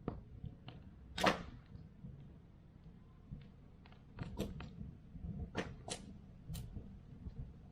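Wood campfire crackling: irregular sharp pops of burning wood over a low steady rumble, the loudest pop about a second in.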